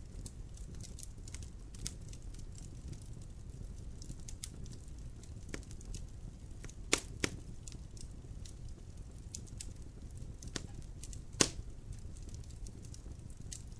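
Wood fire crackling in a fireplace: a low steady rumble of flame with constant small crackles and a few louder pops, two close together about halfway through and another a few seconds later.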